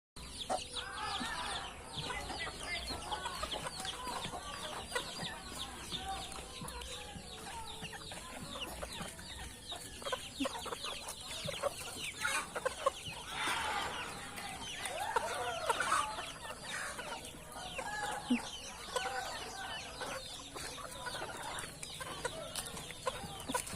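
A flock of native chickens clucking and calling, many short high calls overlapping throughout.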